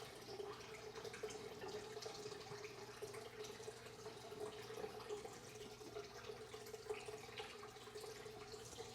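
Faint, scattered drips of liquid falling from a freshly sprayed car body, over a steady low hum.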